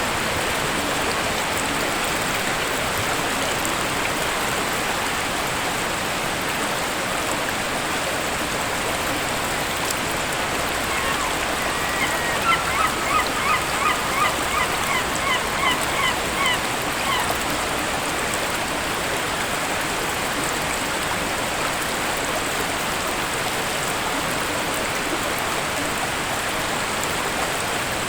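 Steady rush of a waterfall. About halfway through, a bird calls a quick series of about a dozen short notes over roughly five seconds.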